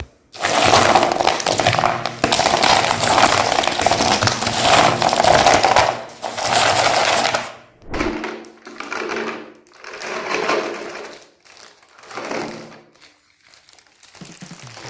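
Electric meat grinder running as it grinds chocolate bars: a long stretch of steady running for about seven seconds, then several short runs of about a second each.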